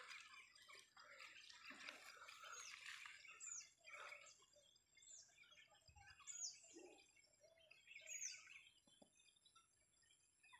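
Faint, repeated short high bird calls, each a quick downward slide, roughly one a second.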